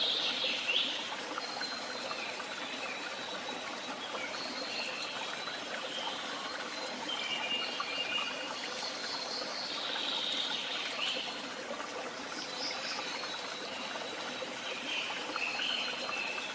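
Water trickling steadily in a small stream, with songbirds singing short chirping phrases every few seconds over it.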